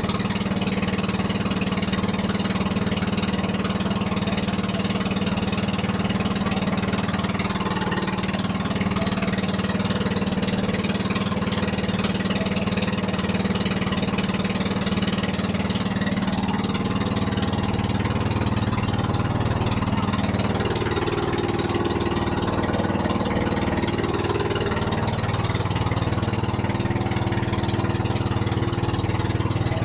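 Small boat engine running steadily after being started. Its note shifts about two-thirds of the way through, the deeper hum growing stronger.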